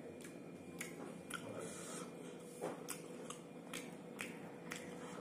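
Close-up chewing of a mouthful of rice and beef curry, with a steady run of sharp, wet mouth smacks about two a second.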